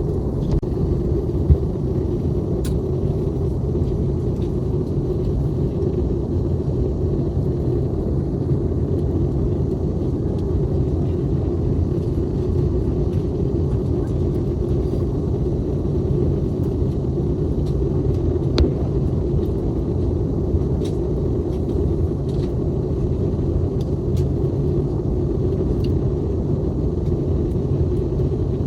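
Steady low rumble of an Airbus A321neo's cabin in flight on approach for landing: engine and airflow noise, with a few faint clicks.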